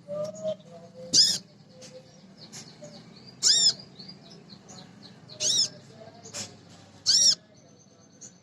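Female kolibri ninja sunbird calling: four loud, short, high-pitched calls about two seconds apart, with softer twittering between them. It is a female's call to males, used as a lure to get other birds singing.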